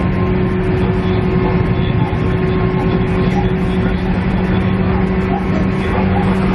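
Inside a JR East KiHa E130 diesel railcar under way: a steady engine drone with several held tones over the low rumble of wheels on rail.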